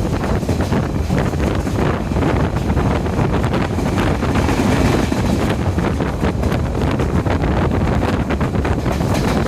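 Diesel multiple unit train running at speed: a steady low rumble with continual rattling and clatter from the wheels and carriage, and wind buffeting the microphone.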